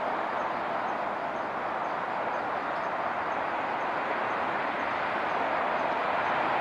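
A firework spraying sparks with a steady hiss.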